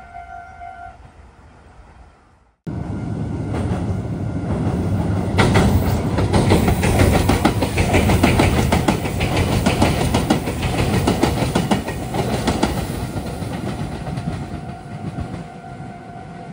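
Meitetsu 3300 series electric train passing close, its wheels clattering rapidly over rail joints and junction points, starting abruptly about two and a half seconds in and fading near the end. In the first second a level-crossing alarm rings with a steady tone.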